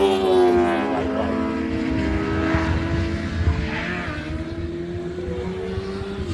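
Racing sidecar outfit's engine passing at speed, its high note falling as it goes by and then holding steady as it pulls away.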